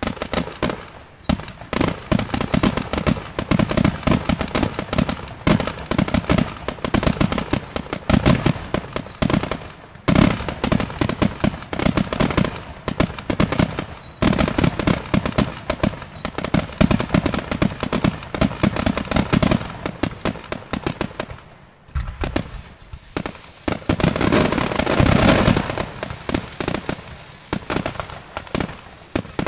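Fireworks display: aerial shells bursting in quick succession, an almost unbroken run of bangs and crackling. About 24 seconds in, a denser, louder stretch lasts a couple of seconds.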